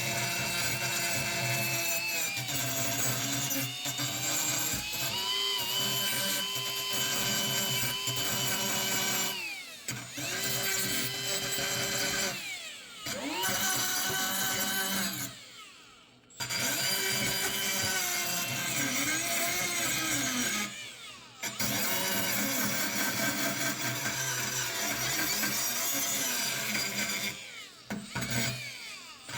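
A handheld electric power tool runs in bursts. Its motor whine rises and falls as it speeds up and slows under load, and it stops briefly and spins back up several times.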